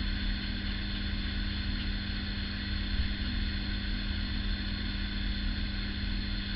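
A steady low hum with an even hiss beneath it, unchanging throughout.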